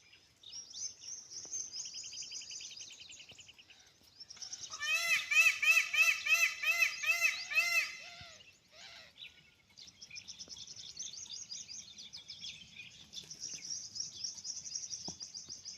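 A peacock calling a quick run of about eight loud, arching honks from about four to eight seconds in. High, thin trilling runs before and after the calls.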